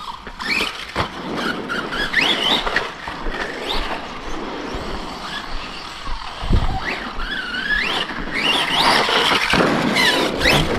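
Brushless electric motors of 1/8-scale RC stunt trucks whining up and down in pitch with repeated bursts of throttle, over the rush of tyres on dirt. There is a low thud about six and a half seconds in.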